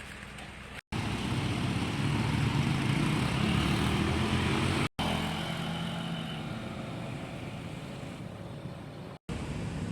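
Engine noise from a passing motor vehicle, swelling about a second in and fading slowly, cut off abruptly twice by edits.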